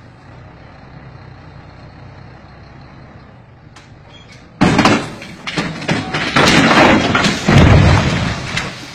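Truck engine running steadily, then about four and a half seconds in a sudden loud crash and four seconds of heavy crashing and banging as the raised dump trailer body breaks loose and tips over onto its side.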